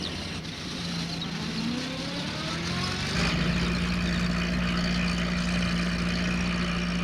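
A small van's engine pulling away: its pitch rises over the first few seconds, then holds steady as it drives on.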